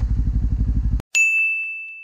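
Kawasaki Z400's parallel-twin engine running steadily through an Akrapovic exhaust with an even low pulse, cut off abruptly about a second in. A moment later a single bright bell ding rings out and fades away slowly.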